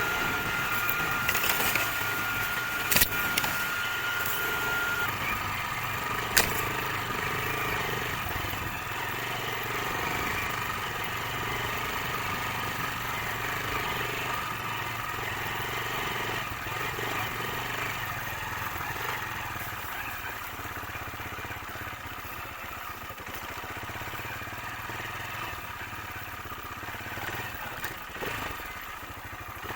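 Racer Panther motorcycle engine running steadily while being ridden along a rough forest track, with two sharp knocks in the first several seconds.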